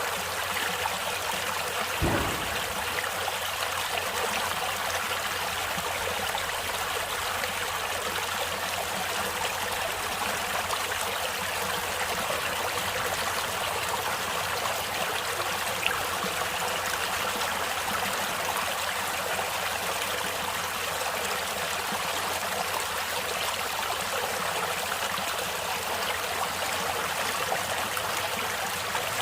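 Natural stream water flowing and babbling steadily, with a brief low thump about two seconds in.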